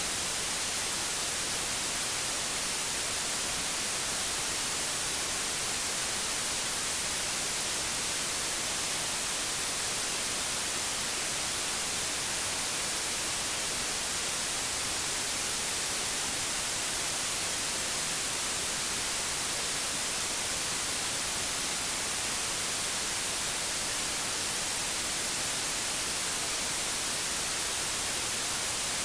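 Steady white noise: an even hiss, strongest in the high frequencies, with no change in level.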